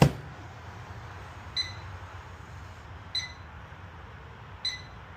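Microwave door shutting with a sharp knock, then the control panel beeping at key presses: three short high beeps about a second and a half apart.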